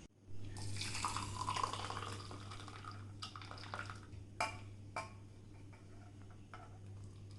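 Water running and dripping, as at a tap or sink, loudest in the first couple of seconds and then trailing off, with a few sharp clicks around the middle over a steady low hum.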